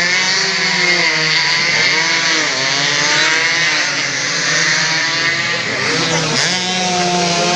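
Several two-stroke underbone race motorcycles running at high revs, their buzzing pitch rising and falling over and over as they accelerate, shift and pass, several engines at once.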